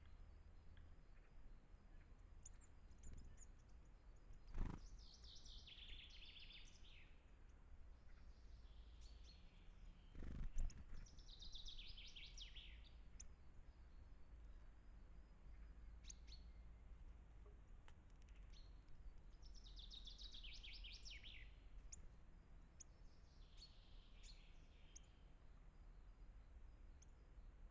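A songbird singing several short high phrases that fall in pitch, spaced a few seconds apart, over a faint low rumble. Two dull knocks sound about four and a half and ten and a half seconds in, the second the louder.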